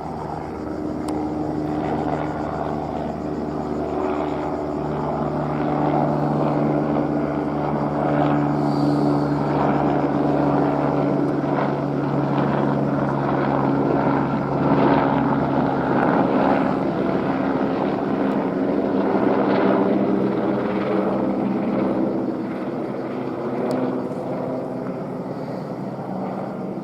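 Airbus AS350 helicopter running overhead, its rotor and turbine making a steady drone. It grows louder over the first half, then eases off somewhat near the end.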